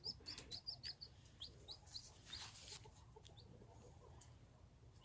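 Baby chicks peeping faintly: a quick run of short, very high peeps in the first two seconds, then scattered peeps. There is a brief rustle about halfway through.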